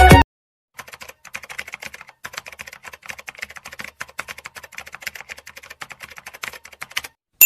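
Keyboard typing: a quick, uneven run of small clicks, several a second, after music stops just at the start.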